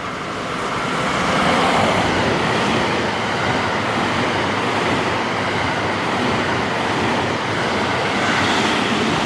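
Special Rapid Service electric train passing through a station at speed without stopping: a steady rushing of wheels on rail that swells over the first second or two and then holds.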